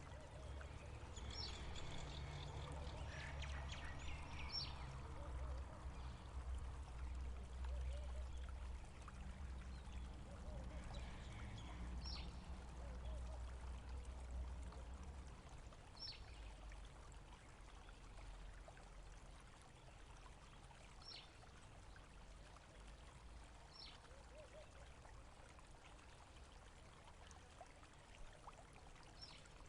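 Faint running water, easing off about halfway through, with short high bird calls every few seconds.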